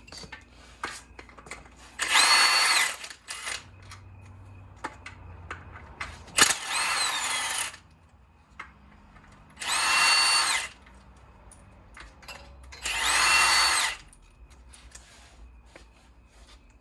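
Power impact wrench running in four bursts of about a second each, its motor whine dipping and rising, as it backs bolts off the stabilizer frame. A sharp metallic knock comes just before the second burst, with small clinks of tools between bursts.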